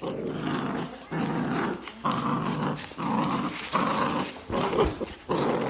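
Dachshunds growling in a play tug-of-war, a run of short rough growls one after another, about one a second.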